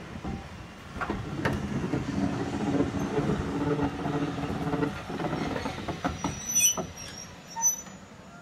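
Passenger coaches of a departing train rolling past at low speed, a steady rumble with scattered sharp clicks from the wheels on the track; the sound fades away near the end.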